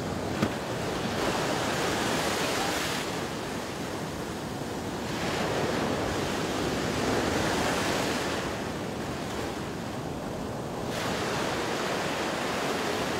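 Ocean surf breaking on a beach, a rushing hiss that swells and washes in three times. A short sharp click comes about half a second in.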